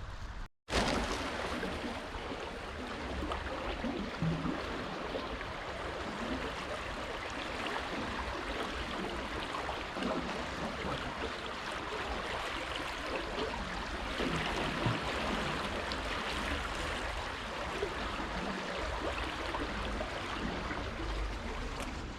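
Swollen, fast-flowing river in flood rushing steadily, a constant hiss of moving water. The sound drops out briefly about half a second in, then resumes.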